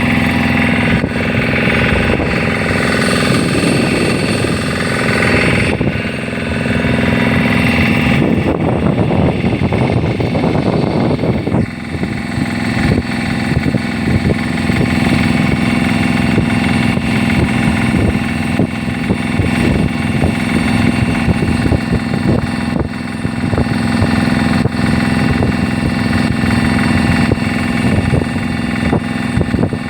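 A motor engine running steadily with a low hum, rougher and louder for a few seconds about a third of the way through.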